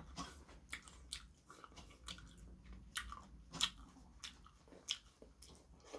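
A person chewing a mouthful of noodles and soup close to the microphone: quiet, scattered short wet smacks and clicks of the mouth.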